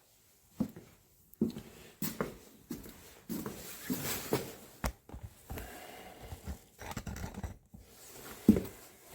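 Irregular knocks, clunks and rustling from handling things at the firebox of a cast-iron stove-fireplace while a fire is being laid and lit. There is a sharp click about five seconds in and a louder knock near the end.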